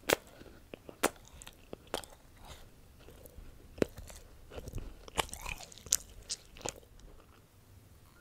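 Close-up chewing and crunching of chocolate: a sharp crunch at the start, single crunches about a second apart, then a quick run of crunches past the middle that fades out near the end.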